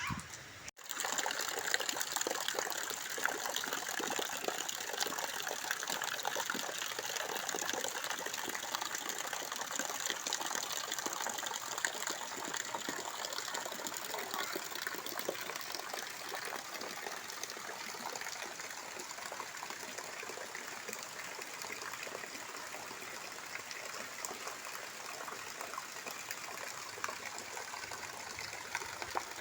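Rainwater pouring and splashing in a steady rush, with a brief dropout under a second in.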